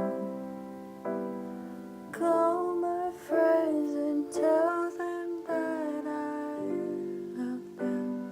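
Music: slow piano chords struck roughly once a second, each left to ring and fade. For a few seconds in the middle, a woman's voice sings a wordless line over them.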